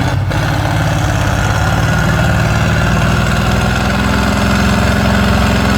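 Heavy off-road trial truck's diesel engine running loudly under load at steady revs, the pitch holding nearly constant.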